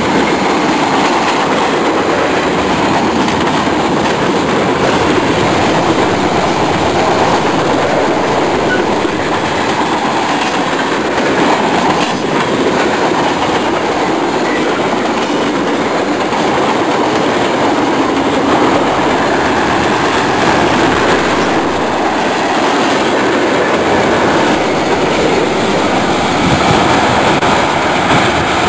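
Freight train of boxcars, covered hoppers and tank cars rolling past close by: a steady, loud rumble of steel wheels on rail that keeps up unbroken as car after car goes by.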